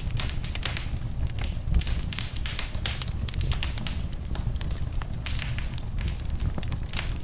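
Wood fire in a fireplace crackling and popping, with frequent sharp snaps over a steady low rumble of the flames.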